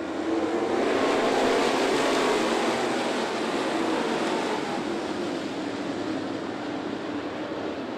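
A pack of dirt late model race cars running at speed on the dirt oval. Their engine noise swells as they pass about a second in, then slowly fades as they move away.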